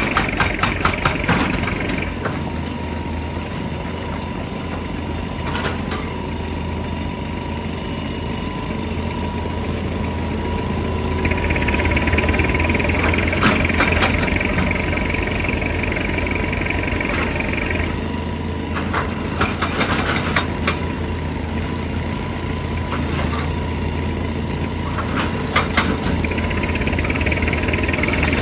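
JCB excavator's diesel engine running with a steady whine, while its hydraulic rock breaker hammers in spells of rapid blows: at the start, again for several seconds in the middle, and near the end.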